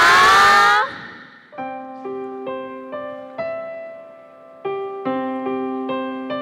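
A loud shout of "好!" right at the start, then a solo piano begins a slow, gentle melody of single notes over a held low note, pausing once in the middle.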